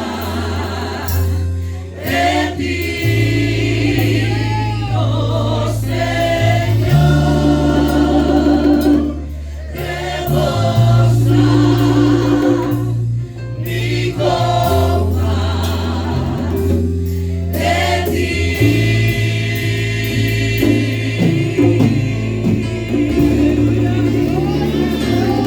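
Live gospel worship music: a choir of singers over held, slowly changing bass and keyboard notes.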